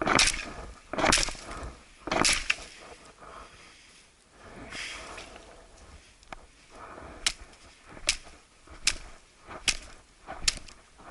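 Firewood being broken up: three loud sharp cracks in the first couple of seconds, then a run of lighter cracks about one a second toward the end.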